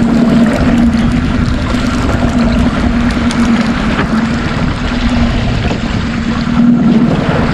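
Small fishing boat's motor running steadily with a low, even hum, under wind and water noise.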